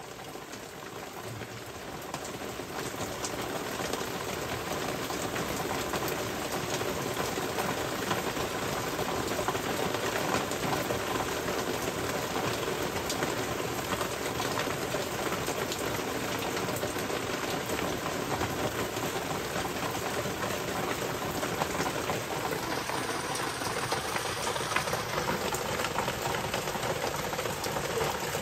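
Torrential rain pouring down onto a flooded road, a dense steady hiss of drops that grows louder over the first few seconds and then holds steady.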